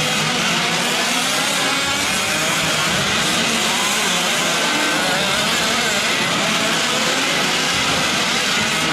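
Several gas-powered 1/5-scale RC trucks' small two-stroke engines running at once in a race, a dense overlapping buzz whose many pitches keep rising and falling as the trucks rev and ease off.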